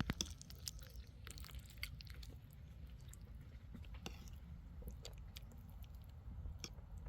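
A person chewing food, with soft, scattered small clicks and smacks of the mouth.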